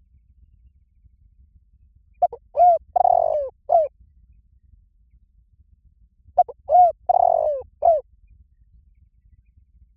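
Spotted dove cooing: two phrases a few seconds apart, each of four or five coos with one longer, rougher note in the middle. This is the male's territorial call, used to lure wild doves.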